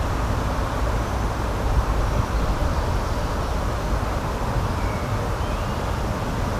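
Steady outdoor rushing noise, strongest in the low and middle range, with a few faint, brief high bird chirps, most of them in the second half.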